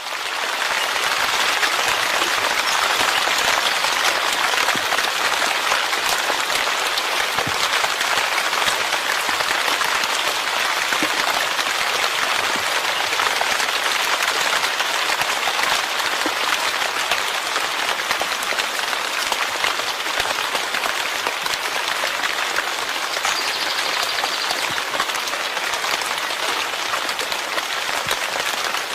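Steady rain, a dense, constant patter of drops on a surface, starting abruptly and then holding even.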